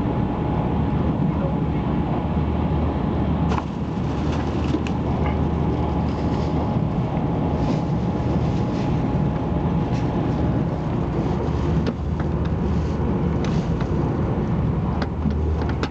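300 Series Shinkansen at speed, heard inside the passenger car: a steady low rumble and rush of running noise, with a few short clicks.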